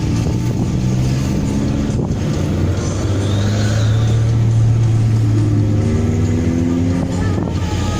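Daihatsu Gran Max's exhaust running loud and low, its pitch rising and falling as the engine revs, with brief breaks about two seconds in and near the end.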